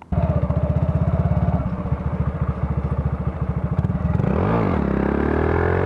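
Small motorcycle engine, suddenly loud, running with a fast pulsing exhaust beat. About four and a half seconds in it blips up and back down, then its pitch climbs steadily as it revs up.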